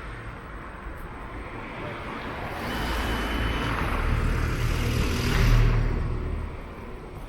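Road traffic noise: a vehicle passes close by, its rumble and tyre hiss swelling to a peak about five seconds in and then fading.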